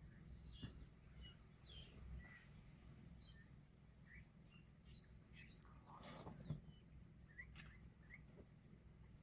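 Faint, scattered bird chirps, short and high, over a quiet low hum, with a brief click about six seconds in.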